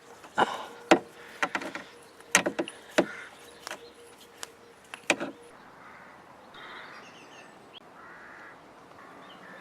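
Sharp metal clicks and clinks of a 21 mm spark plug socket and wrench working the spark plugs out of the engine, coming in an irregular cluster over the first five seconds and then stopping.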